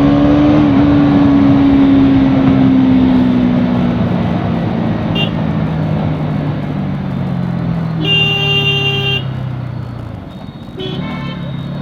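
Bajaj Pulsar NS200's single-cylinder engine winding down as the throttle is rolled off, its pitch falling steadily over several seconds. About eight seconds in, a vehicle horn sounds for about a second, and a shorter horn toot follows near the end.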